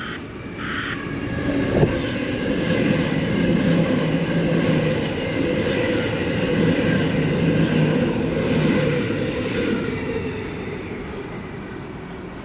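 Sydney Trains A set (Waratah) electric multiple-unit train passing through the station without stopping. The sound builds over the first couple of seconds, stays loud with a steady hum, and fades over the last few seconds. There is a single sharp knock about two seconds in.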